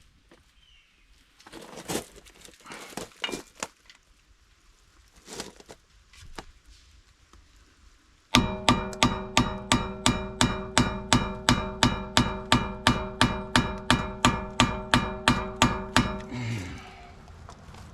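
Scattered tool knocks and clatter, then about halfway in a run of rapid, evenly spaced hammer blows, about three or four a second for some eight seconds, on the brake rotor and its stuck retaining screw. The steel rotor rings between strikes. The blows stop suddenly, followed by a brief rattle.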